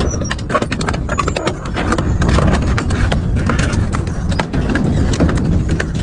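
Double-shaft industrial shredder crushing and tearing metal: a dense run of irregular cracks and knocks over a heavy low rumble.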